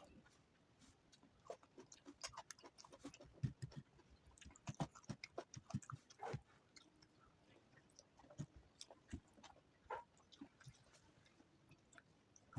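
Faint, close chewing and wet mouth smacks of someone eating rice and vegetable curry, with irregular soft clicks and the occasional crunch.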